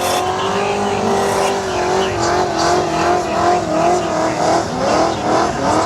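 Car engine held at high revs, its pitch steady at first and then wavering up and down, with tyre squeal.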